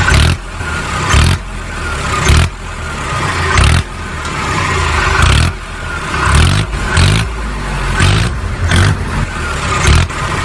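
Vehicle engine revving in repeated rising surges, each cut off sharply after a second or so.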